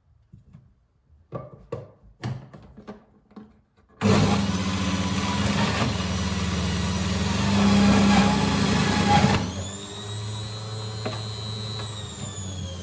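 A few light clicks and knocks, then a small electric motor appliance switches on abruptly and runs steadily for about five seconds. It is then switched off, and its whine falls in pitch as it spins down.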